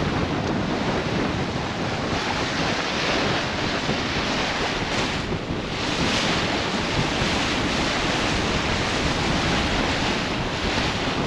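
Strong wind buffeting the microphone over the rush of waves against a sailing yacht's hull, a steady noisy roar that swells and eases every few seconds.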